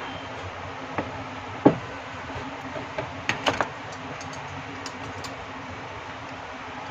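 A few sharp clicks and knocks of hard parts being handled, the loudest about two seconds in and a quick cluster of three near the middle, over a steady low hum.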